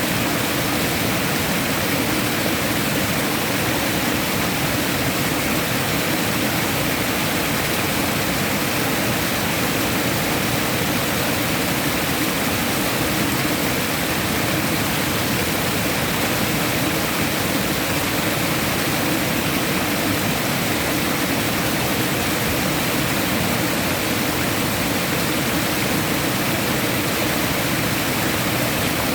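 Rushing water, a steady unbroken wash of sound with no change in level.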